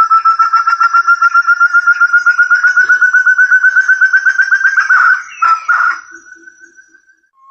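Forest-partridge (puyuh hutan) lure call: a fast run of clear whistled notes, about ten a second, climbing slowly in pitch for about five seconds. It then breaks into a few rougher notes and ends in a single fading whistle.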